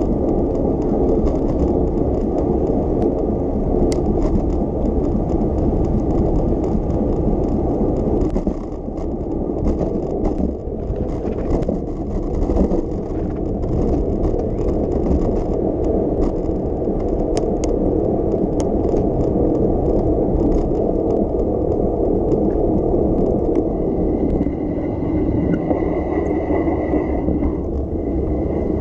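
Steady rumbling road and wind noise of a moving bicycle, with small rattles and clicks throughout. A thin high whine joins about 24 seconds in and holds to the end.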